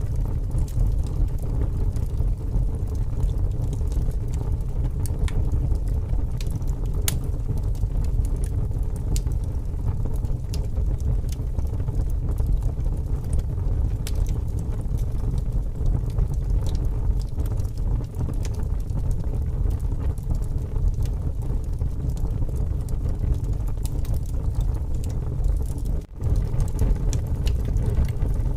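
Strong wind gusting with a steady low rumble, over a wood fire crackling with scattered sharp pops. Near the end the sound briefly cuts out.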